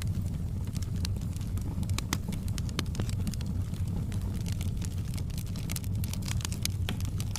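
Fireplace wood fire crackling, with irregular sharp pops and snaps over a steady low rumble of the flames.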